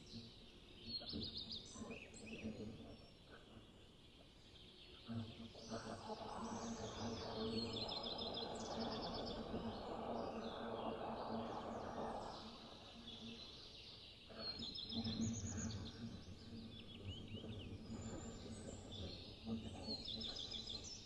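Small birds singing and chirping, with quick trills and calls repeating throughout. A low steady rushing hum rises under them in the middle and again later.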